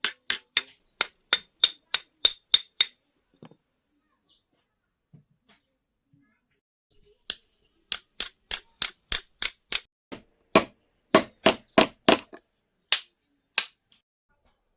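Blacksmith's hand hammer striking metal in two runs of quick blows, about three a second. The first run rings, and the second starts about seven seconds in after a pause.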